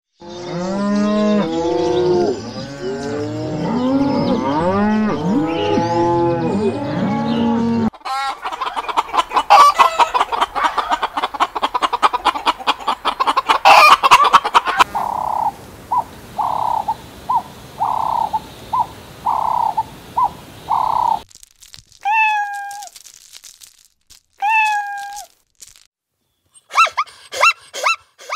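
A herd of cattle mooing over one another for about eight seconds, then hens clucking in a dense, rapid run. These are followed by a row of short evenly spaced calls, two separate longer calls, and a rapid string of short calls near the end.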